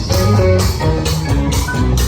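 Live band playing an instrumental passage: guitar picking out distinct notes over a bass line.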